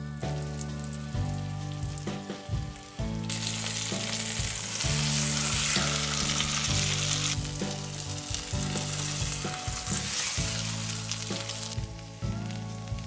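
Flour-coated chicken breasts sizzling in hot fat in a frying pan. The sizzle starts about three seconds in and cuts off about a second before the end, over background music.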